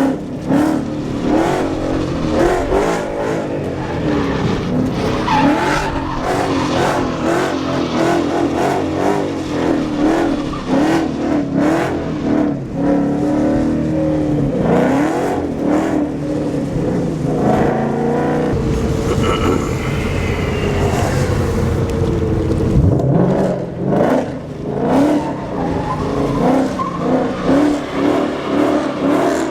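Mustang's first-generation Coyote 5.0 V8 running under way, its revs rising and falling repeatedly as the car is driven.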